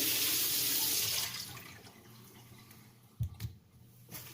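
Water running from a tap with a steady hiss, shut off about a second in. About three seconds in come two short, low knocks.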